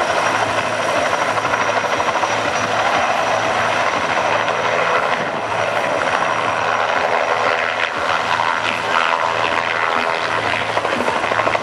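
Agusta-Bell 206B JetRanger III helicopter arriving: steady rotor beat with the thin high whine of its turboshaft engine, the beat growing a little stronger near the end.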